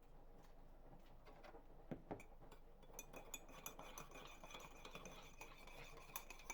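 Faint dishware sounds: two knocks, then from about three seconds in a spoon clinking quickly against a ringing cup or glass, as when tea is stirred.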